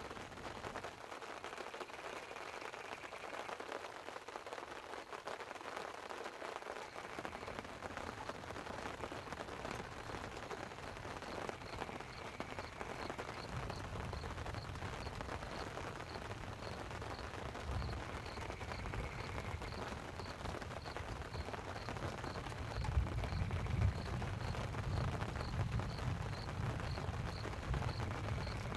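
Light rain falling on a tent over a steady rush of water. From about halfway in, a low rumble of rolling thunder builds, growing louder near the end, and a faint high ticking about twice a second runs under it.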